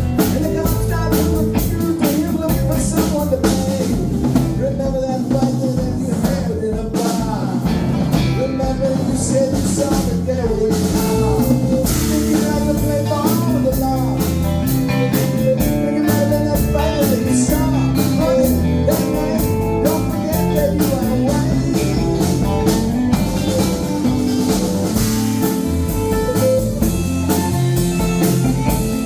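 Live band playing a blues-rock song, with electric guitar and a drum kit.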